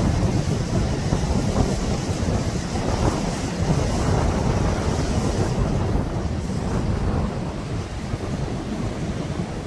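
Wind buffeting the microphone over the steady wash of sea surf, the gusts rumbling low and easing slightly near the end.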